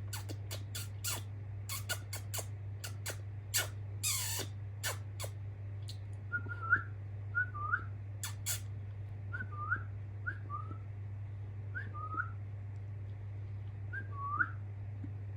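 Young budgerigars: a run of sharp clicks and one long falling squeak, then short, quick chirps repeated every second or so.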